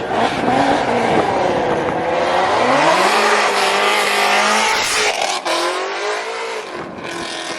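Ford Mustang engine revving hard during a burnout, with the tires squealing under it. The revs climb about two and a half seconds in and hold high, then drop sharply a little past the five-second mark and run on at a lower, quieter pitch.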